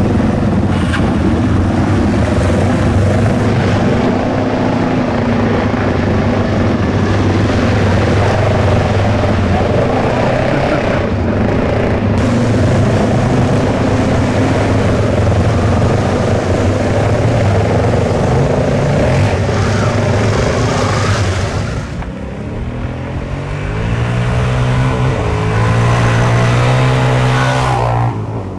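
Dirt bike engine running under way. Its note dips about three-quarters of the way through, then climbs steadily in pitch as the bike accelerates, and drops away just before the end.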